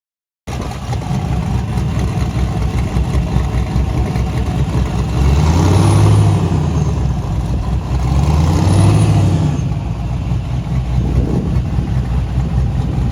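Car engine running, revved twice: two rises in engine pitch and loudness about five and eight seconds in, settling back to idle after each.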